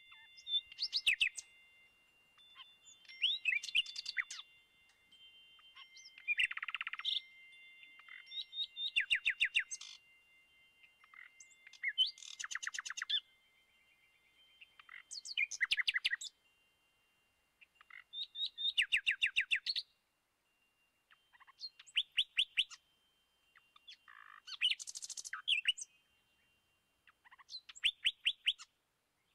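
A bird singing short, rapid trilled phrases, one about every three seconds, over the lingering ring of wind chimes that fades away.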